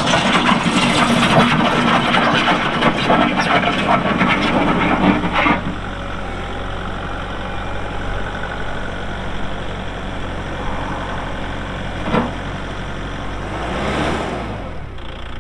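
Kubota MX6000 tractor's diesel engine running, loud and busy for about the first five seconds, then dropping to a quieter steady run, with a brief swell near the end.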